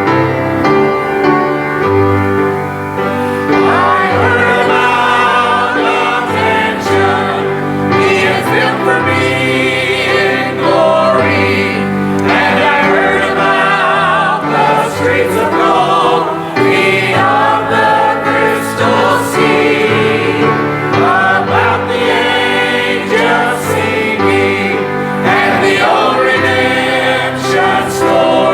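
Church choir singing a gospel song with instrumental accompaniment; the voices come in about three seconds in over an instrumental opening.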